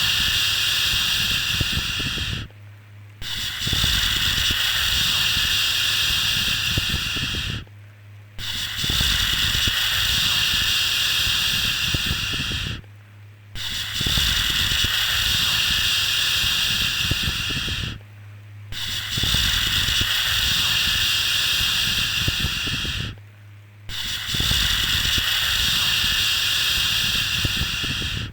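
Repeated 'shhh' shushing sound for soothing a baby: long hissing shushes of about four and a half seconds each, broken by short pauses of under a second, five times, over a faint steady low hum.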